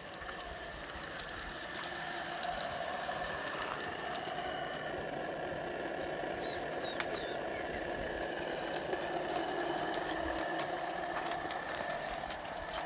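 Wilesco Lucas live-steam model running steadily under steam, a hissing, clattering mechanical run with small clicks, growing a little louder over the first couple of seconds as it comes closer.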